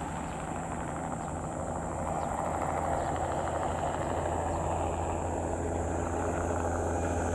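Crop-spraying helicopter flying, its engine and rotor running steadily, growing a little louder about two seconds in.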